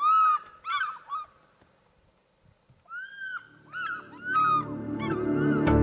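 A bird calling: loud ringing calls, a long arched note followed by several quick shorter ones, given twice with a pause between. Soft music fades in under the second call and swells near the end.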